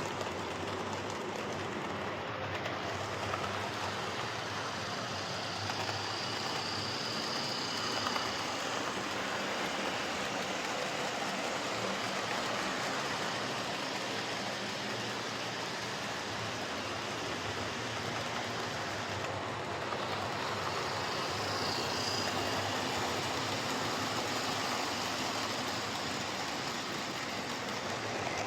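Lima Class 55 Deltic OO gauge model locomotive running steadily along the track, its electric motor and wheels making a smooth whirring with a faint high whine that comes and goes. Not too loud, the sign of a model running smoothly after a good service.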